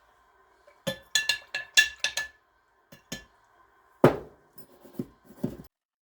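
Hard metal objects clinking and tapping. First comes a quick run of about six clinks with a faint lingering ring, then one heavier knock and a few lighter taps.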